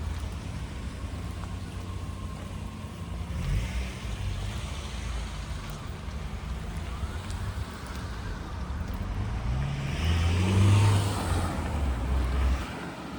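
A car engine running close by. Its pitch rises about two-thirds of the way in as it speeds up and passes, and it is loudest near the end before dropping away.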